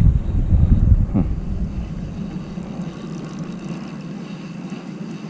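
Wind buffeting the microphone in heavy low gusts, easing after a second or two into a steadier outdoor hiss.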